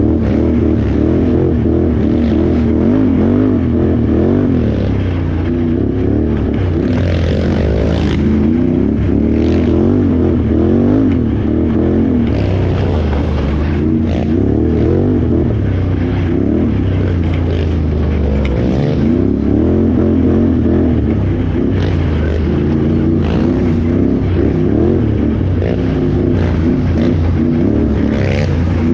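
Can-Am Renegade XXC 1000R ATV's V-twin engine running hard, revving up and down continuously as the rider works the throttle, with brief clatters now and then.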